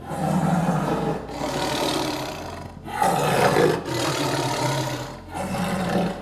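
A large wild animal roaring in about five rough, drawn-out calls, each a second or so long, with short breaks between them.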